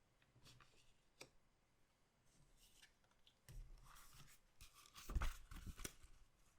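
Goddess Story trading card packs and cards being handled: short crinkling and rustling of foil wrappers and card stock, with a few soft knocks. The busiest and loudest handling comes near the end.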